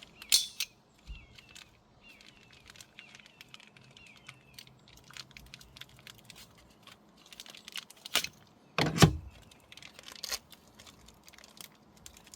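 Scattered clicks and knocks of parts being handled, with sharp cracks about eight and nine seconds in, the second the loudest.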